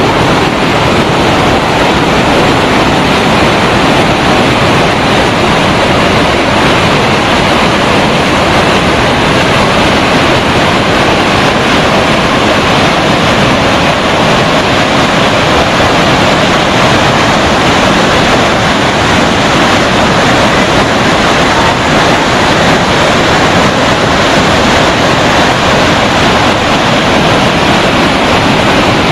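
Iguazu Falls' water crashing down: a loud, steady, unbroken rush.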